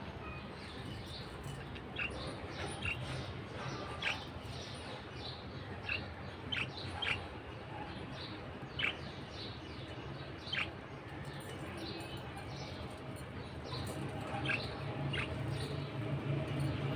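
Budgerigar chirping: about a dozen short, sharp calls, each dropping quickly in pitch, at irregular intervals. A low steady hum runs underneath and grows a little louder near the end.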